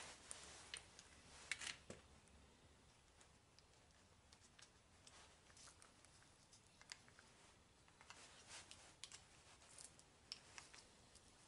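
Faint scattered clicks and short scraping sounds of handling, at a very low level.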